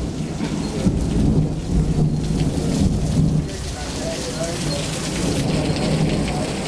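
Rain pouring steadily in a thunderstorm, with thunder rumbling low underneath.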